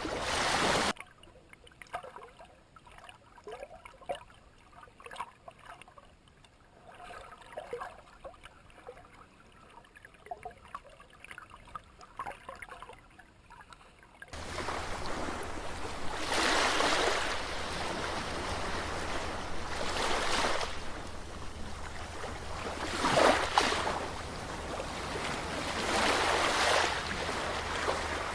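Water washing in waves. After a sudden cut about a second in there is only faint lapping with small clicks; from about halfway through, loud washes swell and fade every three seconds or so.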